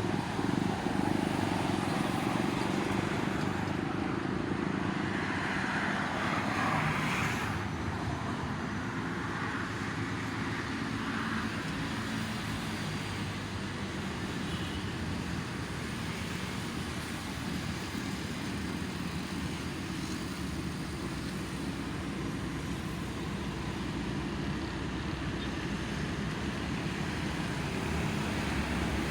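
Steady road traffic noise from vehicles running on a toll road, swelling briefly about six seconds in.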